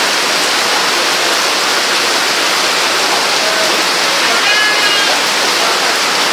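Heavy rain falling: a steady, loud hiss.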